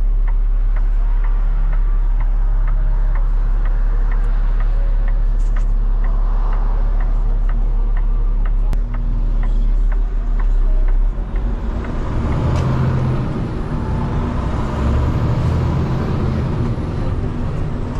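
Peterbilt 589 dump truck's diesel engine heard from inside the cab, running steadily with a regular light ticking. About eleven seconds in, the engine note changes and grows rougher and heavier as the truck works under load.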